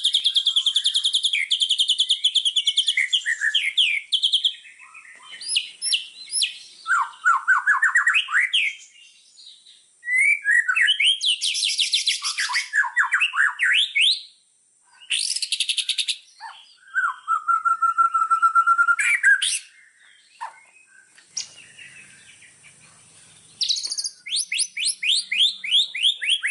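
Songbirds singing a fast, varied medley of chirps, rapid trills and rising sweeps, broken by short pauses, with a quick run of falling notes near the end. It is a 'masteran' tutor recording of the kind played to teach caged songbirds new song.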